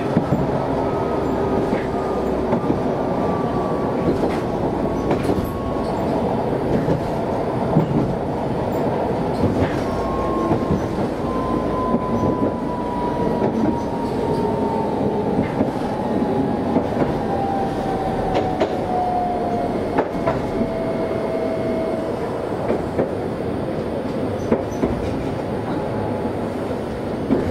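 Chikuho Electric Railway car running along the line, heard from inside: a steady rumble of wheels on rail with scattered clicks from the track. In the middle, a thin whine slowly falls in pitch for about ten seconds.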